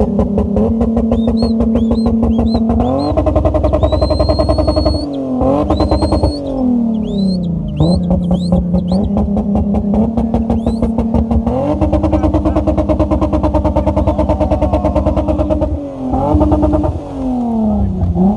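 A car's engine held at high, steady revs while it spins. The revs drop and climb back twice, and short high squeals sound over it in the first several seconds.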